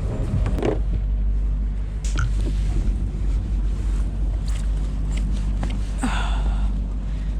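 Boat engine running steadily, a low hum, with wind on the microphone; a few short rustles and a breathy sniff-like sound about six seconds in.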